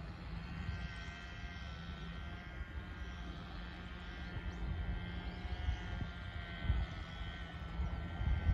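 Diesel railcar running along the line, heard from inside the carriage: a steady low rumble of wheels on rail with irregular knocks, under a faint whine that drifts slowly in pitch.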